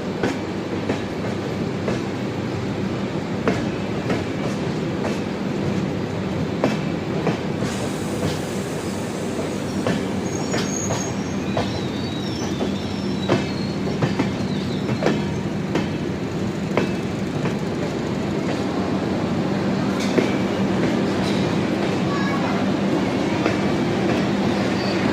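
Passenger train running along the track: a steady rumble and hum with irregular clicks of the wheels over rail joints. Faint high wheel squeal about ten seconds in.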